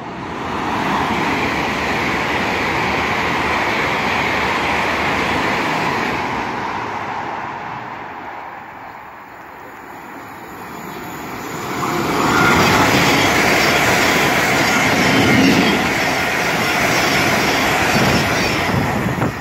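An LNER Azuma express train runs through at speed with a loud rush of wheels and air, which fades away after about eight seconds. A few seconds later a Thameslink Class 700 electric train runs past close by, louder still, until the end.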